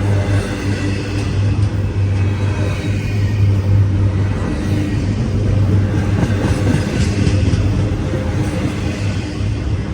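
CSX intermodal freight train rolling past at close range: a steady, continuous rumble of wheels and cars with a low hum underneath.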